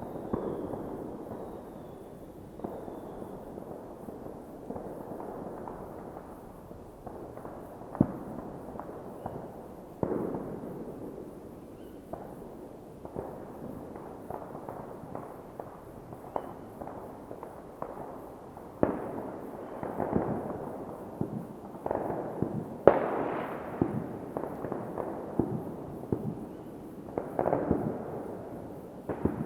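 New Year's Eve fireworks going off in many places at once: a continuous rumble of distant explosions with frequent sharp bangs and crackles on top, the bangs coming more often in the second half.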